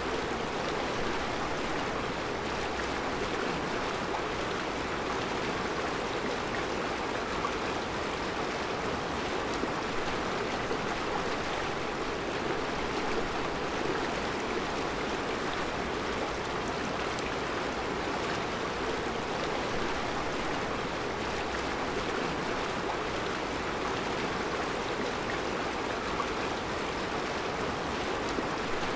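Mountain river flowing over round rocks in its bed, a steady rushing of water with no change in level.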